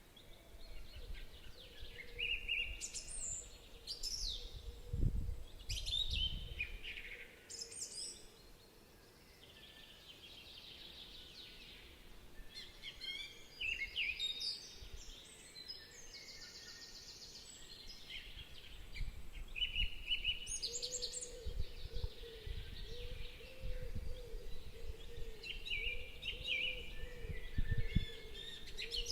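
Garden birds chirping and singing: a run of short chirps and trills, several calls overlapping, with low rumbles at times and a faint steady hum in the second half.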